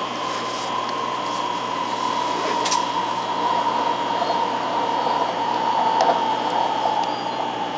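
Hikari Rail Star shinkansen (700 series) running: a steady rumble of running noise with a motor whine that slowly falls in pitch.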